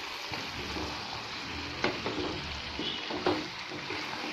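Chicken and potato cubes sizzling in a metal pot as a wooden spatula stirs them, with a steady frying hiss. A couple of sharp knocks of the spatula against the pot stand out, about two and three seconds in.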